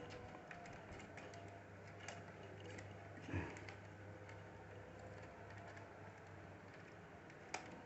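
Faint scattered small clicks and light taps of plastic laptop parts and cables being handled and pressed into place, over a steady low hum, with a sharper click near the end.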